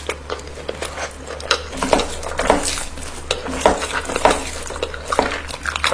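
Cutlery clinking and scraping against a dish while eating, a run of irregular short clicks.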